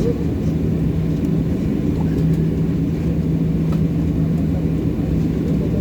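Boeing 737-800 cabin noise on the ground after landing: a steady low rumble with a constant hum, the engines idling.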